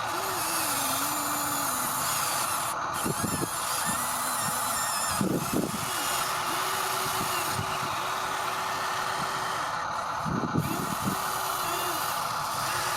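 Small electric motors and plastic gearboxes of radio-controlled construction models whining steadily, the pitch dipping and shifting as the load changes, with a few short knocks and scrapes.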